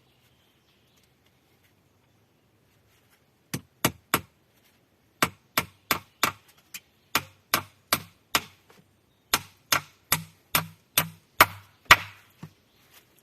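A tool striking wood: quick runs of sharp knocks, two to three a second, starting about a third of the way in, with the hardest blow near the end.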